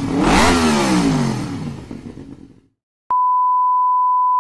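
Motorcycle engine revving, its pitch rising and falling, then fading out. About three seconds in, a steady electronic beep at one pitch sounds for about a second and a half.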